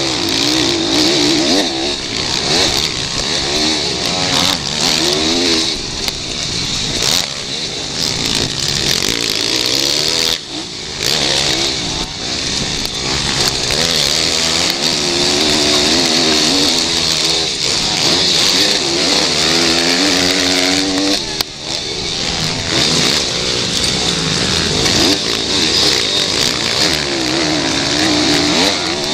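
Small single-cylinder pit bike engines racing, revving up and down again and again, with a steady hiss from the exhaust.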